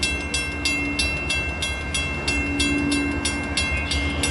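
Metra commuter train with its diesel locomotive approaching, a steady low rumble. Over it, an even, fast bell-like ringing of about three to four strokes a second.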